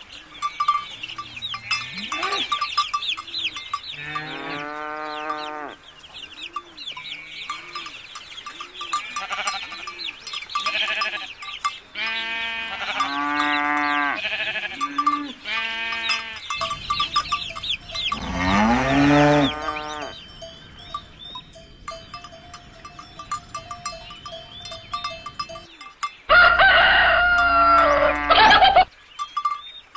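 A run of farm-animal calls: goats bleating again and again through the first part, then a rooster crowing loudly near the end.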